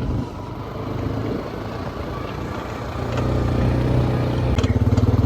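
Vehicle engine running while driving on a dirt road, with a steady low rumble. It grows louder about three seconds in, and a rapid even pulsing sets in near the end as the engine works harder.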